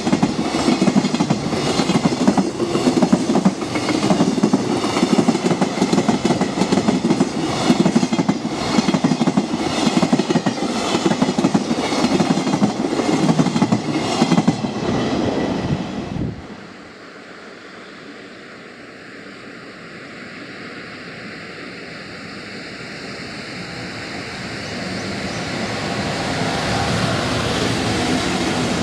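A freight train behind an EF66 electric locomotive rolls past close by, its wagon wheels clattering over the rail joints in a steady rhythm. About sixteen seconds in the sound breaks off, and a second freight train, behind an EF210 electric locomotive, is heard approaching, growing steadily louder.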